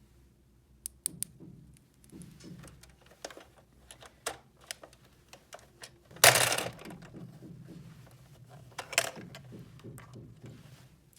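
Small plastic toy pieces being handled: scattered light clicks and taps, with a louder rattling burst about six seconds in and a shorter one near nine seconds.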